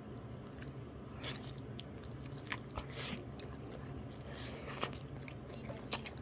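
A person chewing a mouthful of soy-seasoned glass noodles close to the microphone, with irregular mouth clicks and smacks.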